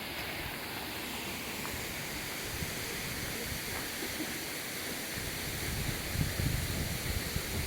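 Steady rushing of falling water from a waterfall, with wind buffeting the microphone in low gusts from about five seconds in.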